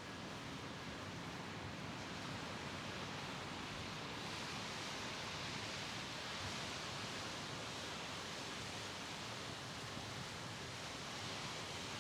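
Mediterranean sea waves washing against the shore in a steady, even rush, swelling slightly about a third of the way in.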